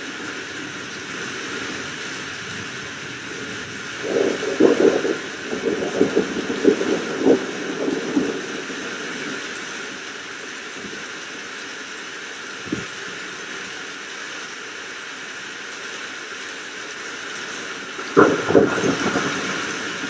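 Steady rain hiss with two spells of crackling thunder, one about four seconds in lasting several seconds and another near the end, and a single sharp crack in between.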